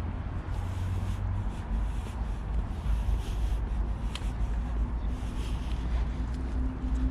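Outdoor street ambience picked up while walking: a steady low rumble with a faint hum, and a few faint soft clicks.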